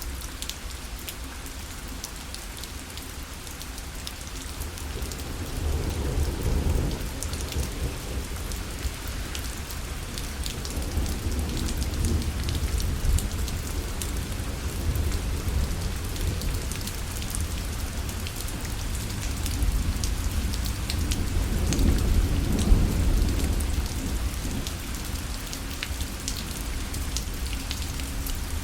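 Steady rain falling on a parasol, with many separate drops striking the fabric. Low rolls of thunder swell twice: about six seconds in, and again from about twenty seconds in.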